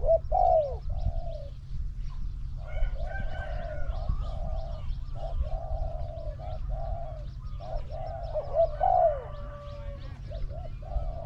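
Spotted doves cooing in repeated phrases, a decoy and a wild dove calling back and forth with their calls overlapping at times, over a steady low rumble.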